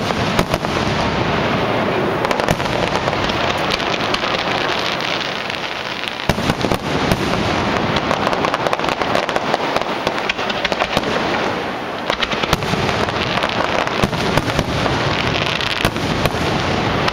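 Aerial firework shells bursting in quick succession, with many sharp reports overlapping a continuous crackle from the bursts, easing briefly about six and twelve seconds in.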